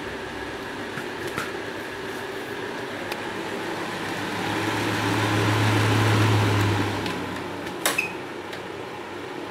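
Small electric fan running steadily with a whirring noise; a low hum swells louder for about three seconds in the middle and fades, and a few light clicks are heard, two of them near the end.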